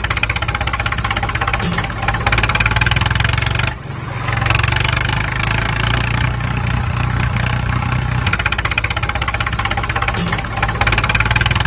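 Heavy engine running with a fast, even chug, dipping briefly about four seconds in and then carrying on.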